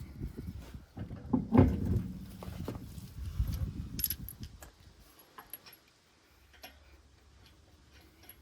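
Metal items being handled: knocks and clatter with a loud thump about one and a half seconds in, then small metallic clinks that die down after about five seconds.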